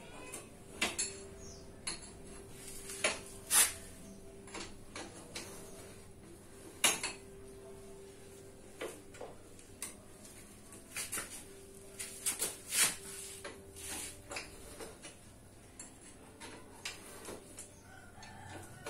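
Irregular metallic clinks and taps of hand tools and metal parts being handled, the loudest strikes about three and a half, seven and thirteen seconds in, over a faint steady hum.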